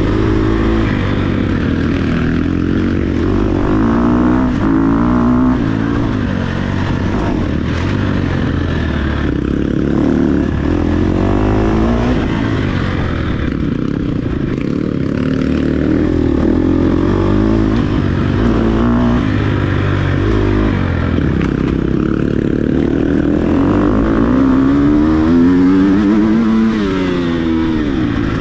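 Dirt bike engine revving up and dropping back over and over as it is ridden hard off-road, pitch rising and falling with each throttle run, with a strong climb near the end.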